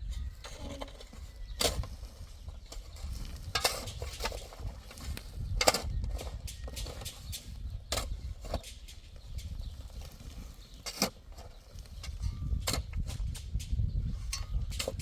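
Irregular sharp knocks and clinks, about a dozen, spaced unevenly over a steady low rumble.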